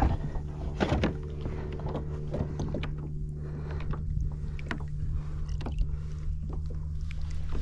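Small sounds around a kayak: scattered light knocks and ticks over a steady low hum.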